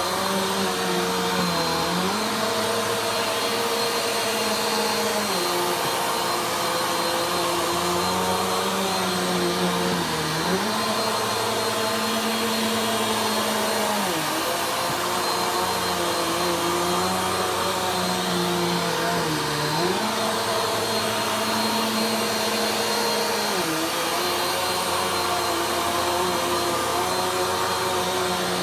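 Vacuum cleaner running steadily during slow vacuuming. Its motor pitch dips briefly every few seconds, then recovers.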